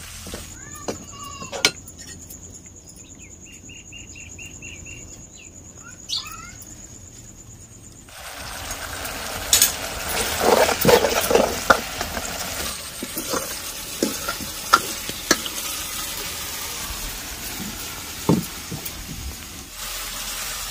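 Chopped tomatoes and spice paste frying in a kadhai, sizzling while a steel ladle stirs and scrapes them, with sharp clicks of the ladle against the pan. The sizzle grows louder about eight seconds in.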